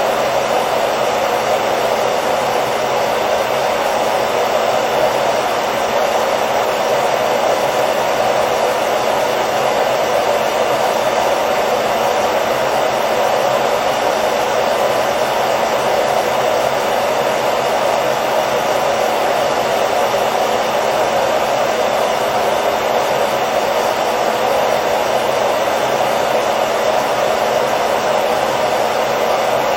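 Hair dryer running steadily: a continuous, even blowing noise with a low motor hum, strongest in the midrange.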